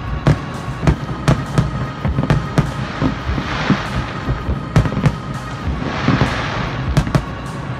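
Fireworks display: many shells burst in quick succession with deep booms and sharp cracks. Two spells of crackling glitter come about three and a half and six seconds in.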